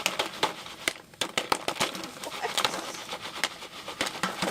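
Irregular clicks and crinkles of a Jiffy Pop foil popcorn pan and its packaging being handled.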